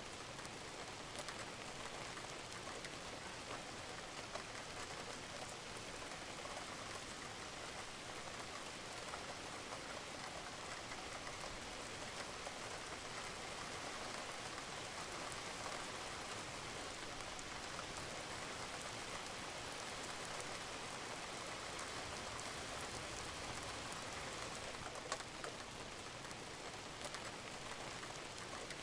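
Steady rain falling on a roof, a constant patter of many drops with some louder individual drips.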